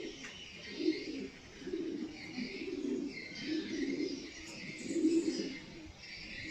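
Pigeons cooing, a run of low coos about once a second, with higher chirping from other birds over them.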